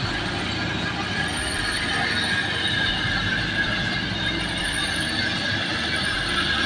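Combine harvester running while harvesting rice: a steady mechanical clatter with a constant high-pitched whine.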